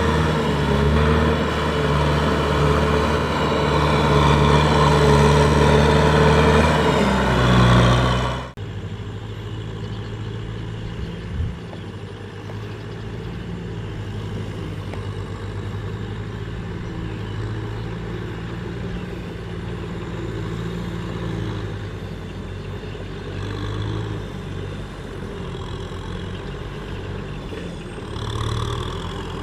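Kubota M6040SU tractor's four-cylinder diesel engine running loud and steady, picking up revs briefly before the sound cuts off abruptly about eight seconds in. A quieter, steady engine drone follows, with a single short knock a few seconds after the cut.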